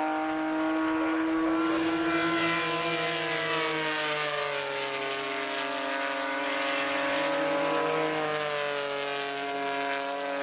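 Early Porsche 911 air-cooled flat-six racing engine running steadily at moderate revs. The note sags about four seconds in and climbs again around eight seconds.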